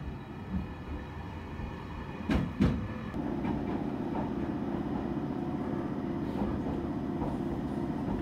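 Inside an E721-series electric train pulling into a station: a low rumble, two sharp knocks a little over two seconds in, then a steady drone as the train stands at the platform.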